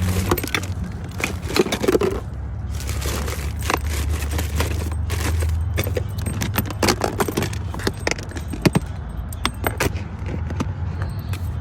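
Irregular clinks, clicks and rattles of small hard objects being handled, over a steady low hum.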